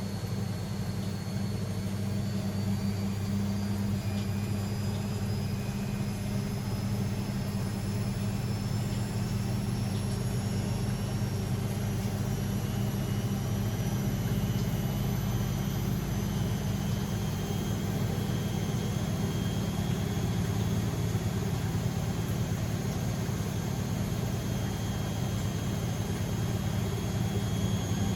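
Beko WML 71433 NP front-loading washing machine spinning, a steady low hum of the drum with a thin motor whine that rises slowly in pitch as the spin speeds up.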